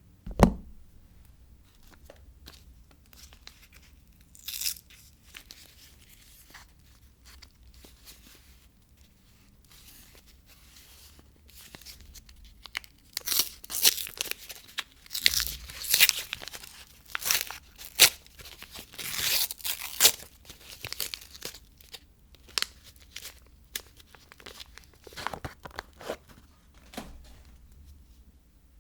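Soap packaging being torn and crinkled open by hand: scattered crackling rustles that build to a dense stretch in the middle and thin out near the end. A single sharp knock comes right at the start.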